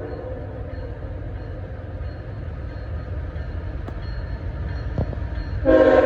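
Diesel freight locomotive approaching with a low rumble in a gap between horn blasts. Its multi-chime air horn sounds again, suddenly and loud, near the end.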